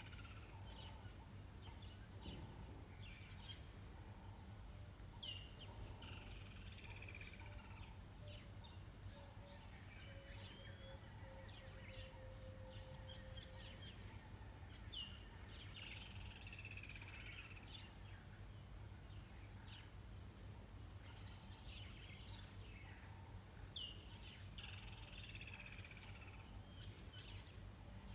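Faint wild birdsong in African bushveld, with scattered short chirps. One bird repeats the same phrase three times about nine seconds apart, a quick rising note followed by a falling warble, over a steady low background hum.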